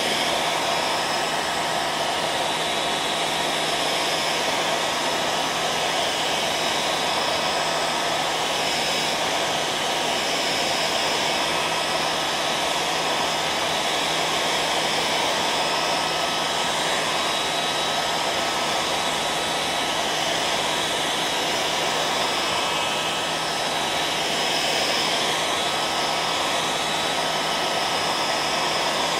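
Electric hairdryer running steadily: an even blowing rush with a constant motor hum and a thin steady whine.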